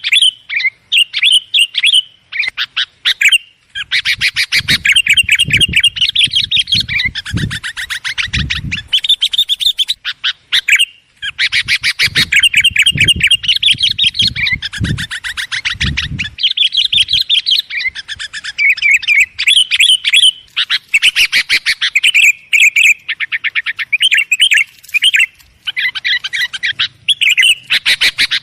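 Sooty-headed bulbuls (kutilang) chattering noisily, rapid bubbly call notes running almost without pause. There are low muffled thumps underneath in two stretches, early on and again in the middle.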